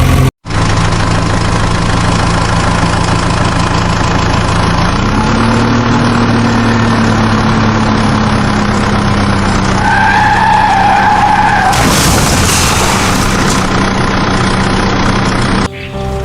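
Vehicle engine running steadily, its pitch rising about five seconds in and then holding. Around ten seconds in a wavering tone sounds for about two seconds, followed by a burst of hiss.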